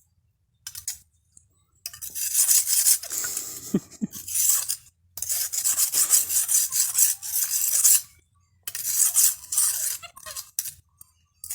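Knife blade being sharpened, metal scraping against a sharpener in quick rasping strokes. The strokes come in three runs of a few seconds each, with short pauses between them.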